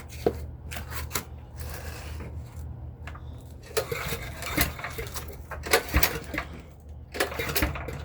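Recoil pull cord of a pressure washer's small gas engine pulled by hand, giving a run of clicks and rattles as the engine is turned over to check whether it is locked up; the engine does not start.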